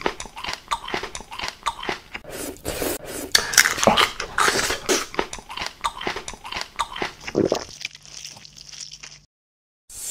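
Close-miked eating-ASMR sounds: rapid, loud crunchy biting and chewing. The crunching thins out about three-quarters of the way through and stops in a short silence just before the end.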